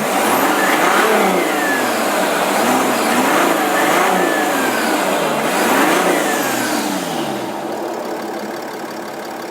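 Nissan V9X 3.0-litre V6 turbodiesel revved in a series of throttle blips, each rising and falling, about one a second, then settling back toward idle near the end. It is being revved to check a slight turbocharger whine on revs, which is hardly audible here.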